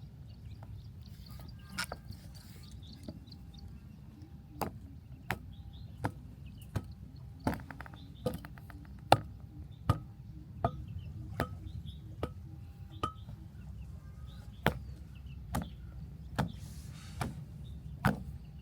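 A hand tool striking again and again in sharp, evenly paced blows, a little more than one a second. After a few scattered knocks the steady run starts about four seconds in and lasts to the end.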